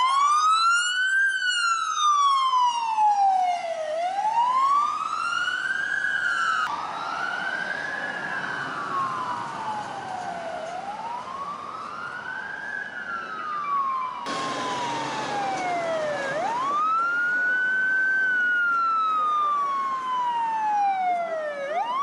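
Fire department emergency vehicle siren sounding a wail, its pitch rising quickly and then falling more slowly, one cycle every four to five seconds. The background changes abruptly twice.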